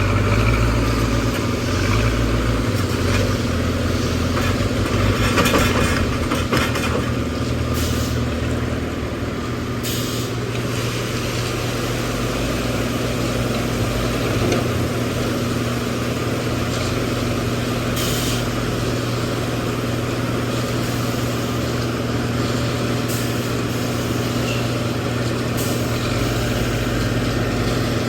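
Heavy diesel machinery engine running steadily, with a few brief hissing bursts.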